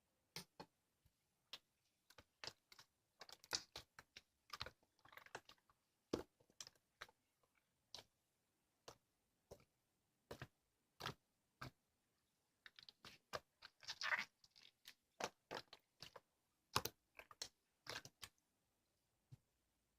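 Slime being squeezed and pressed by hand, giving irregular soft clicks and small pops of trapped air, with a few short crackly squishes.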